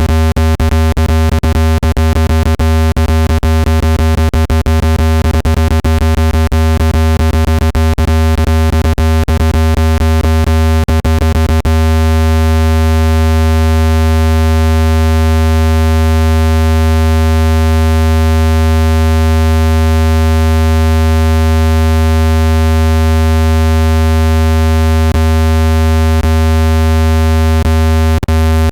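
Synthesized low-pitched speaker-cleaning tone, a loud steady buzz with many overtones, meant to be played at full volume to shake dust out of a phone speaker. Rapid clicks run through it for about the first twelve seconds, then the tone holds steady with only a few clicks near the end.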